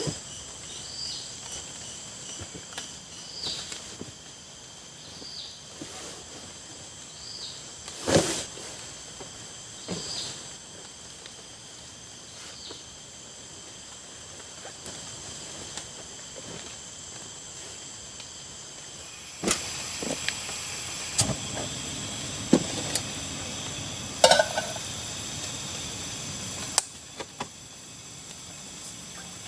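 Night insects trilling steadily, with a short chirp repeating about once a second for the first dozen seconds and occasional sharp clicks. About two-thirds of the way through, a steady hiss rises and several sharp taps and clicks follow.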